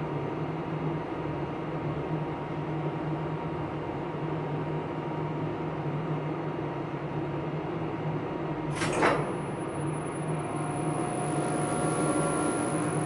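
Elevator machine-room machinery running with a steady hum. About nine seconds in there is a sharp clack, and a high steady whine starts up right after it, with a few fainter tones joining.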